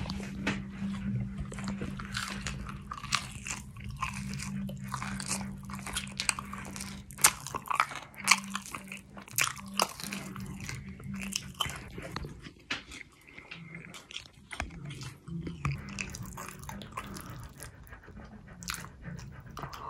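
A person chewing and crunching a crispy seasoned curly fry close to the microphone, with irregular crisp crunches that are loudest around seven to ten seconds in.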